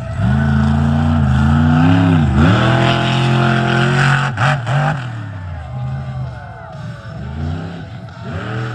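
Monster truck engine revving hard, its pitch climbing, dropping sharply about two and a half seconds in, then climbing again before it backs off about five seconds in.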